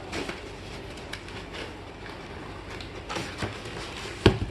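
Toy parts and box packaging being handled: scattered light clicks and rustles, with one sharper knock near the end.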